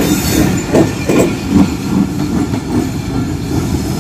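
Train rolling past at low speed, its wheels clattering over the rail joints with a steady rumble and a few louder knocks.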